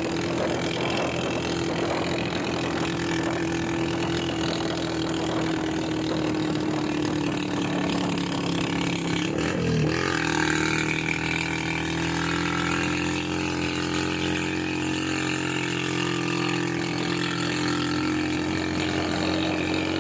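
Motor vehicle engine running steadily on the road, its pitch dipping briefly and settling at a slightly different pitch about halfway through.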